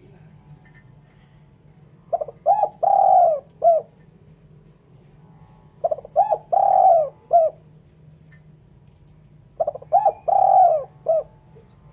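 Spotted dove cooing: three repeats of its phrase, about every four seconds, each two short coos, a long drawn-out coo and a short closing coo.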